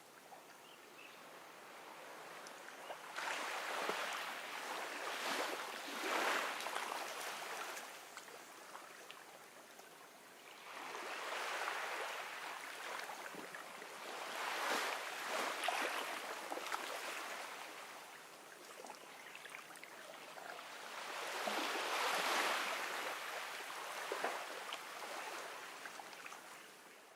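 Gentle ocean waves washing onto a beach, swelling and ebbing in slow surges about every six to eight seconds, with a fizzing hiss as each one breaks.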